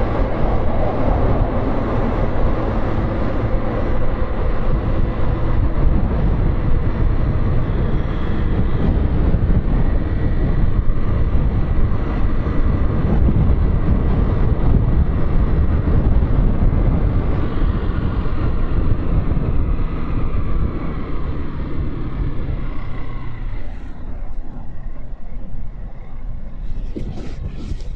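Motorcycle engine running under way with road and wind noise on the microphone; the engine note falls as the bike slows, and in the last few seconds it is quieter, with a few short clicks near the end.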